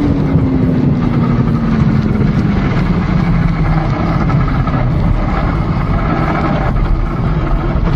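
Road and vehicle noise: low rumble and rush, with an engine tone that falls steadily in pitch over the first few seconds as a vehicle slows or passes.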